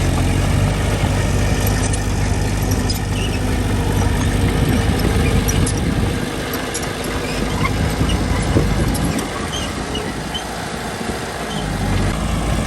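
Heavy diesel engine of earthmoving machinery running with a steady low drone; the engine sound eases off about halfway through and picks up again near the end.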